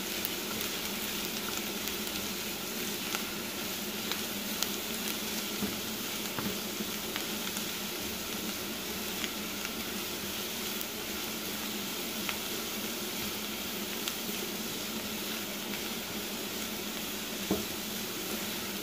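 Diced shallots sizzling steadily in hot oil in a frying pan as they are sautéed until fragrant, stirred with a wooden spatula that scrapes and taps against the pan now and then. One sharper knock comes near the end.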